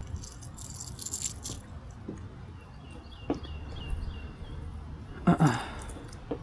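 Fishing tackle being handled in a kayak: scattered rattling and clicking, with a short voice-like sound about five seconds in.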